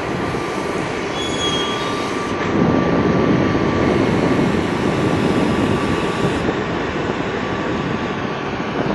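Electric locomotive hauling a passenger train past at low speed: a steady rumble of wheels on the rails under a thin steady whine, with a brief high wheel squeal about a second and a half in. The rumble swells as the locomotive and first coaches pass closest, then eases.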